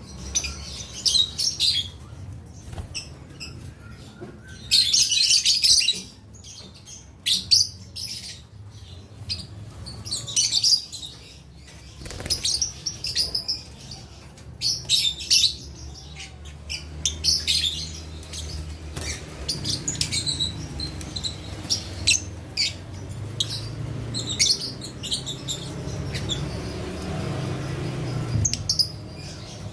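Lovebirds chirping and chattering in repeated shrill bursts, the loudest about five seconds in, over a steady low rumble that grows stronger in the second half.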